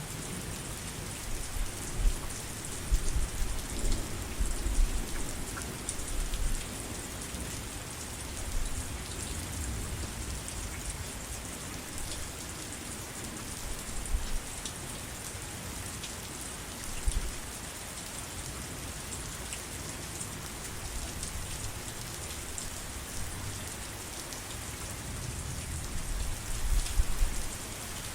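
Steady heavy rain falling in an even hiss of drops, with low rumbles of thunder a few seconds in and again near the end.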